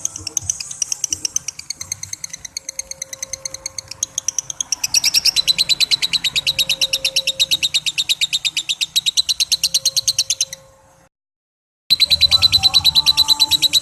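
Lovebird singing its long 'ngekek' chatter: a fast, unbroken run of shrill repeated notes. It cuts off suddenly about eleven seconds in and starts again within a second.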